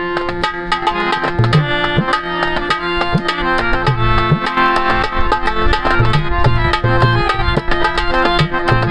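Instrumental interlude of a ghazal: tabla playing a steady rhythm, its bass drum strokes bending in pitch, under sustained melodic notes.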